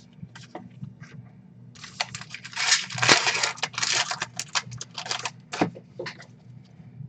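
Baseball trading cards and their packaging being handled close to the microphone: a dense run of crinkling and rustling about two seconds in, lasting some four seconds.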